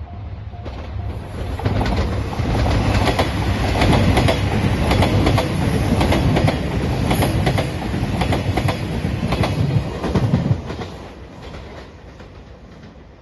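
Train passing over a level crossing, its wheels clacking in a steady rhythm over the rail joints, loud from about two seconds in and dying away near the end. A level-crossing bell rings at the start before the train drowns it out.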